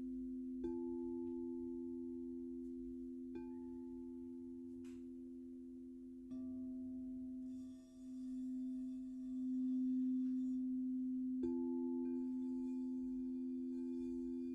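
Crystal singing bowls ringing in two long, steady, overlapping tones, renewed by light strikes a few times. About six seconds in, a higher tone joins, and the lower tone swells and wavers before settling again.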